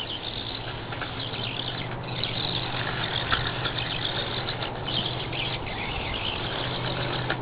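Losi Micro Desert Truck's small electric motor and gears whirring as the RC truck drives through mud, the whine rising and falling with the throttle over a steady low hum.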